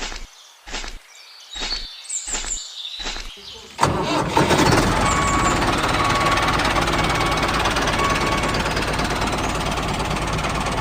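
Engine starting: short cranking bursts in a row, then about four seconds in it catches and runs steadily and loud.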